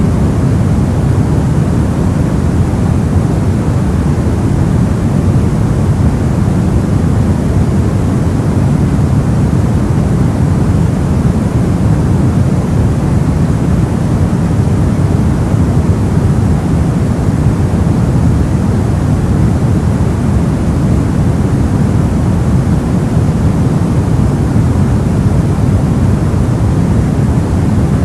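Steady generated noise with most of its weight low, a soft, deep hiss that stays even and unchanging throughout.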